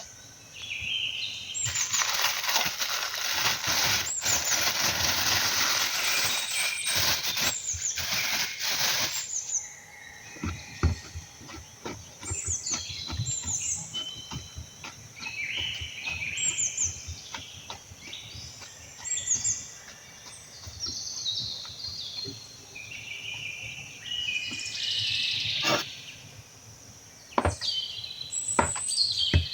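Birds chirping, many short high calls that fall in pitch. A loud hiss runs for several seconds near the start, and light knocks are scattered through the second half.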